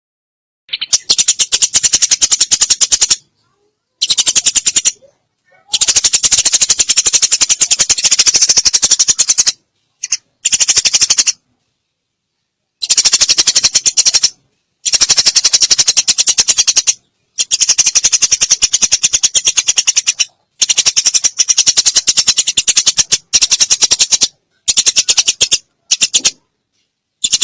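Eurasian tree sparrows chattering in fast runs of sharp chirps, the agitated calls of sparrows fighting, in bursts of one to four seconds broken by short silences.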